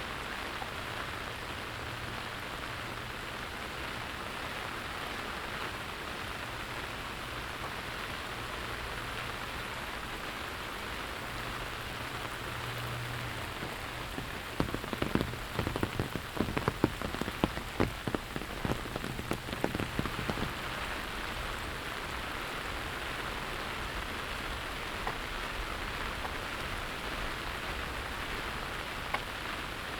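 Steady rain falling on surfaces all around. About halfway through comes a run of sharp, loud taps, lasting about six seconds.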